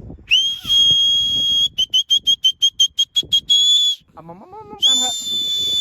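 A loud, shrill whistle: one long blast, then a rapid run of about ten short blasts, then another long blast. A brief lower call sounds in the gap just before the last blast.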